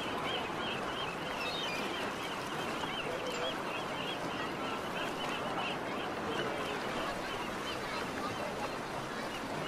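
A bird calling in a fast, even series of short chirps, about four a second, over a steady background hubbub; the calls fade out about seven seconds in.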